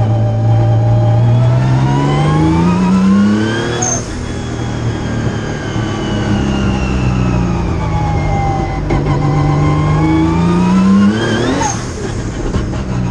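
A 1000 hp race-built Nissan March engine at full throttle, heard from inside the cabin. It climbs steadily in pitch and drops suddenly about four seconds in, then sags and climbs again before a second sudden drop near the end, with a brief sharp high note at each drop.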